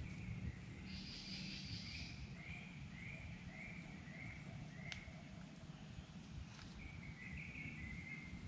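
A bird calling in the forest: a run of about six short notes of the same pitch, evenly repeated, then a brief warbling phrase near the end, over a steady low rumble of outdoor ambience.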